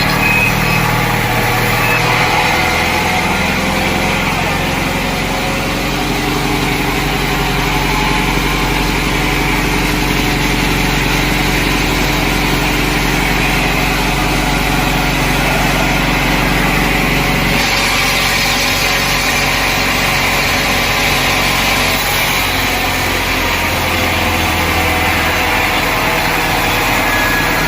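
Sawmill machinery running steadily with an engine-like drone, its tone changing about two seconds in and again near eighteen seconds.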